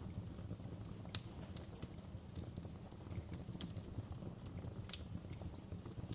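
Wood fire crackling: irregular sharp pops and snaps over a low, steady rumble, the loudest pop about a second in.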